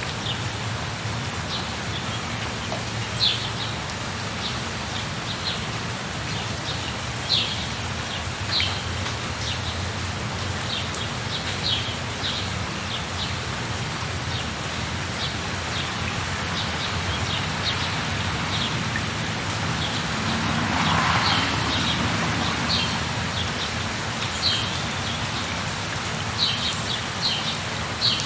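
Steady rain with a bird giving short, high chirps every second or two. The rain swells briefly about two-thirds of the way through.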